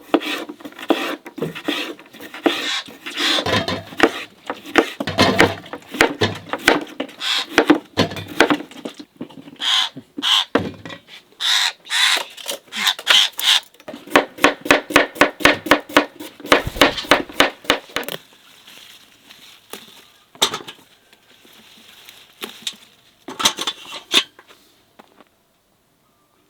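Kitchen food-prep clatter: knocks and scrapes of utensils on wood and dishes, with a quick, even run of about five knocks a second midway that stops about eighteen seconds in, then a few scattered knocks.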